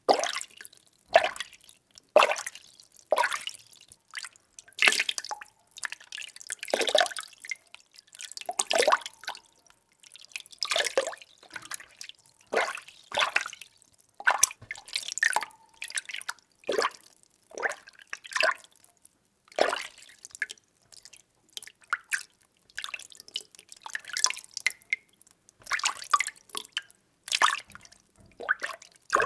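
Water being stirred in a container, sloshing and splashing in repeated strokes about once a second.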